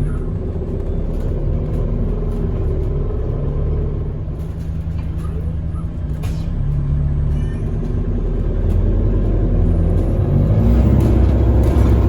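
Bus engine and drivetrain running while the bus drives, heard from inside the passenger saloon over road rumble. It gets louder about ten seconds in as the bus pulls harder.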